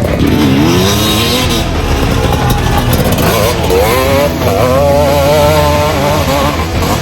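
KTM 250 SX two-stroke dirt bike engine revving up and down under riding, its pitch dipping and climbing in the first second and wavering quickly through the middle.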